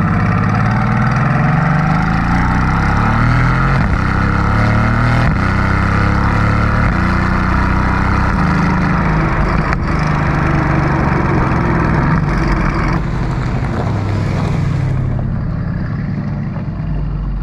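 Mercedes-AMG GT S's 4.0-litre twin-turbo V8 running loud, its engine note rising and falling again and again as the revs climb and drop.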